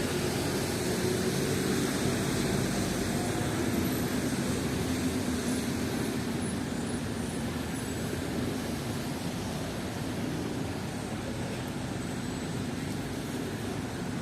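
Steady city street traffic: a continuous hiss of passing vehicles with a low engine hum.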